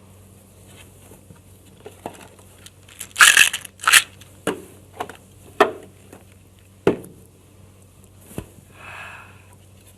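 Plastic packaging crinkling and crackling in a string of about eight sharp, irregular cracks, the loudest two about three and four seconds in, with a softer rustle near the end.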